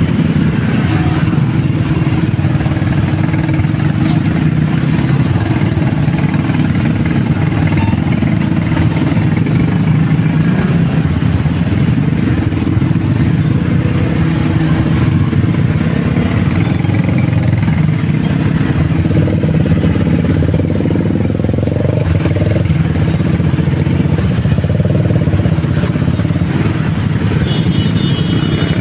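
Motorcycle engine running steadily while riding through traffic, a continuous low drone, with a short horn-like tone near the end.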